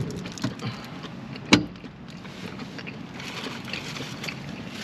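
Close-up chewing and mouth sounds of someone eating a burger: small irregular wet clicks and crackles, with one sharp, loud click about one and a half seconds in.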